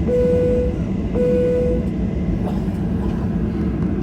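Steady low rumble of a Boeing 737-800 airliner cabin. Two short, loud beeps of the same pitch sound over it, one at the start and the second about a second later.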